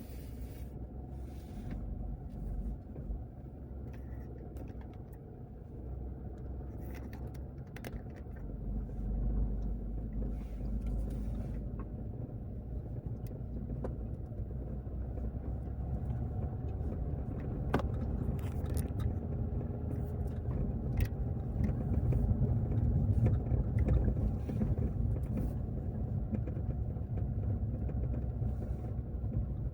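A car driving, with a steady low rumble of engine and road noise that swells a little past the middle, and occasional small knocks and rattles.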